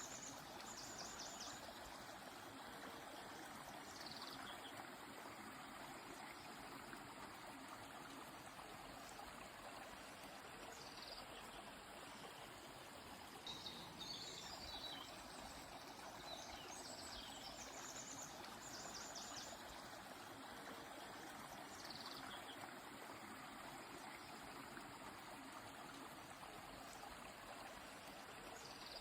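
A river flowing steadily and faintly, with birds calling over it: two runs of rapid high notes and several brief falling whistles spread through.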